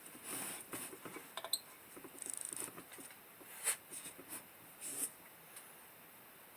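Light scratching, clicks and taps of small objects being handled, with one short metallic ping about a second and a half in.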